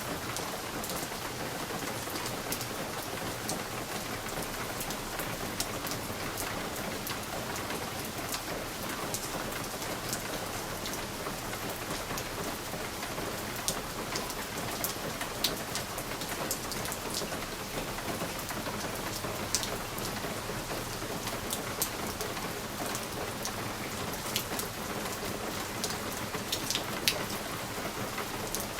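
Steady rain against a window pane: an even hiss with scattered individual drops ticking sharply on the glass, a few louder ones now and then.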